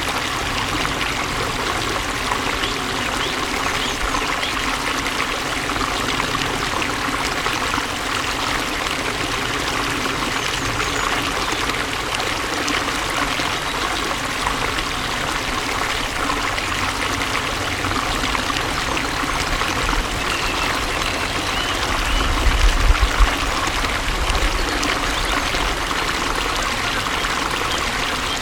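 Flowing water running steadily, an even rushing babble. About three-quarters of the way through, a brief low rumble rises under it for a second or so.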